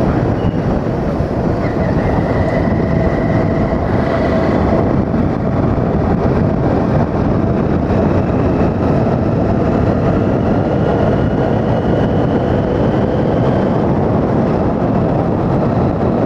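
Motorcycle riding along at a steady speed: a loud, steady rush of engine and wind noise with a faint, steady engine whine in it.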